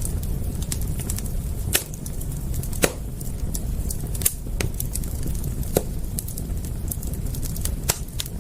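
Wood fire crackling: scattered sharp pops and snaps over a steady low rumble, the loudest pop a little under three seconds in.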